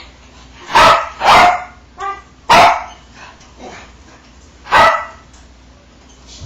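A dog barking: four loud barks, the first two close together, with a shorter, softer one between the second and third.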